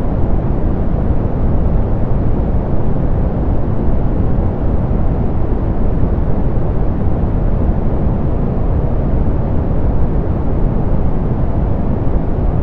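Steady, loud, softened pink noise: an even hiss with its weight in the low end, rolled off in the highs, and no change throughout.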